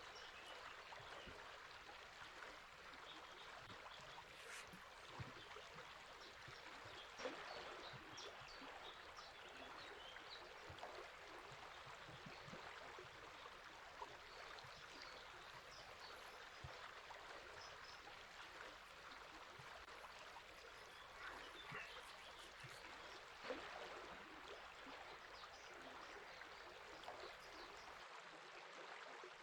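Faint, steady flow of river water babbling over stones, with a few slightly louder splashes.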